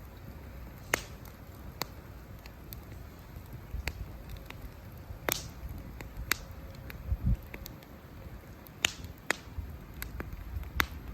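Wood campfire crackling, with sharp pops from the burning wood at irregular intervals, roughly one a second, over a low steady rumble.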